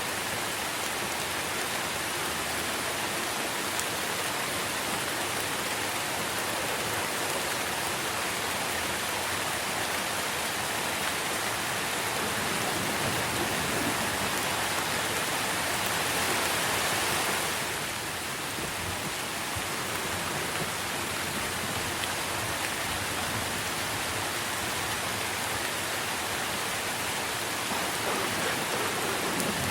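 Steady rain falling on trees, an even hiss of drops on leaves that swells for a few seconds about midway, then eases back.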